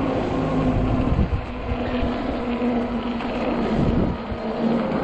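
Ecotric 48V fat-tire e-bike riding over snowy, slushy pavement: the hub motor gives a steady whine that drops out briefly a few times, under rumbling tyre noise and wind on the microphone.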